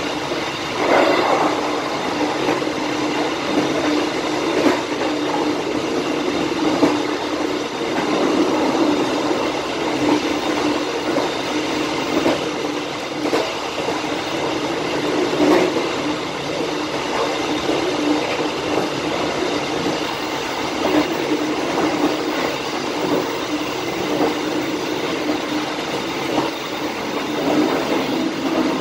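Passenger train running along the track, heard from the rear of its last carriage: a steady rumble of wheels on rail with scattered irregular clicks and knocks.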